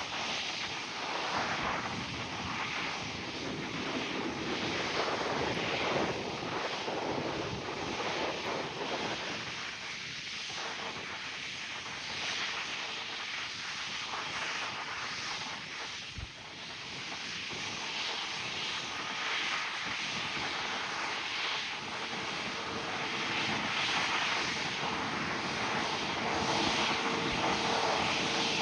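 Jet engine noise from an Airbus A350-1000's Rolls-Royce Trent XWB engines: a steady rushing roar that swells and eases, with a steady whine coming in near the end.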